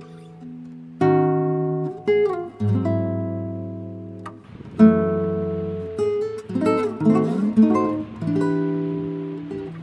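Background music: acoustic guitar, plucked and strummed chords that ring and fade, with a quicker run of sliding notes midway.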